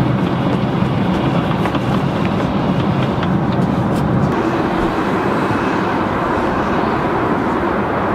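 Steady drone of an airliner cabin in cruise flight: engine and airflow noise, even and low-pitched, with a few faint clicks of handling.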